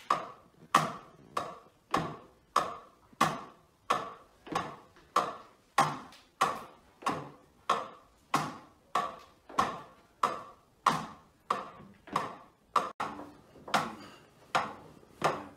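Drumsticks tapping the rubber pads of an electronic drum kit in a slow, steady beat of about one and a half strokes a second. Each tap rings briefly, and a quick double tap falls near the end.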